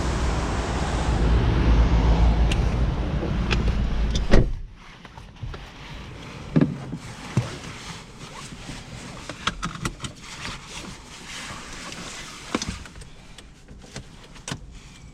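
Loud low rumble of outside noise for about four seconds, cut off by a single sharp thump as the car is shut up. A quiet cabin follows, with scattered small clicks and knocks.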